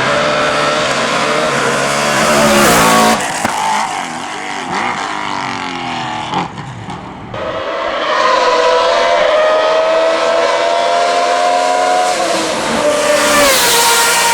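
Hillclimb race car engines at high revs: pitch climbing and then dropping at gear changes as a car passes. About seven seconds in the sound changes abruptly to another car holding a high, steady engine note that drops near the end.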